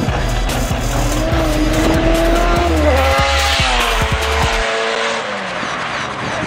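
A car accelerating hard from a standing start and passing close by. The engine note climbs, drops once about three seconds in as it shifts up, climbs again, then falls away after it passes. Thumping bass music plays underneath for the first part.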